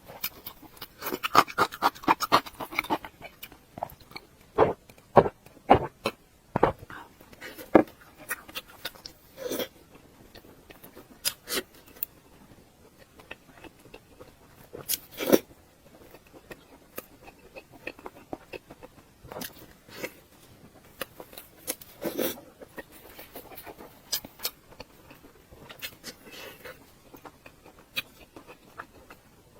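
Close-miked eating: chewing and crunching, a dense crackle in the first few seconds, then scattered sharp clicks and smacks.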